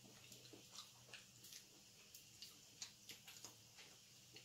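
Faint eating sounds: soft, irregular chewing clicks and lip smacks over a low steady hum.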